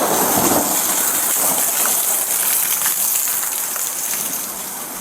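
Heavy rain falling in a steady hiss, easing slightly near the end.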